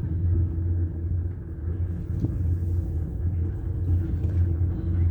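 Four-seater chairlift's machinery running with a steady low hum and rumble, with a light knock about two seconds in.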